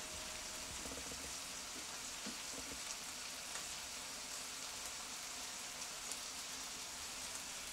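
Chicken strips with onion, garlic and aromatics sizzling steadily in a frying pan over low heat, with a few faint ticks.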